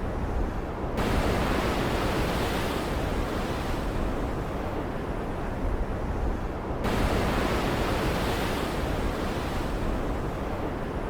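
Stormy ocean ambience: waves surge in twice, about a second in and again near seven seconds, each coming in suddenly and fading over a few seconds, over a steady low rumble.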